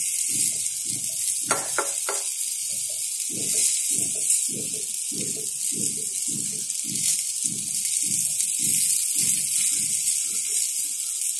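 Oil sizzling steadily as battered pumpkin flowers shallow-fry in a nonstick pan, with a steel spatula clicking against the pan a couple of times near the start. A soft low pulsing comes about twice a second through most of it.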